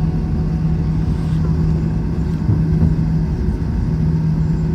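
Airbus A321 cabin noise heard from inside the cabin: the jet's engines and airflow make a steady, loud low rumble with a constant humming tone.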